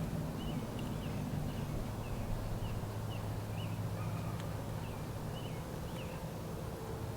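A songbird calling a string of short chirps, roughly two a second, that stops about six seconds in, over a steady low hum.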